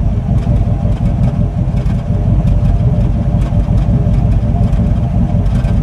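1962 Chevrolet engine idling steadily, warmed up on fresh oil and running smoothly with no misfire, with a faint light ticking over the low running sound.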